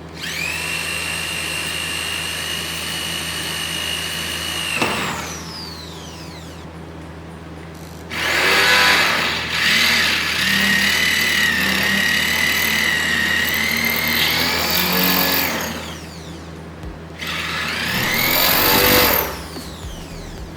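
Aegon AD602 corded electric drill running in three bursts with a steady high whine. The first run lasts about five seconds and winds down. A longer, rougher run with wavering pitch starts about eight seconds in, and a short run near the end spins up and winds down again.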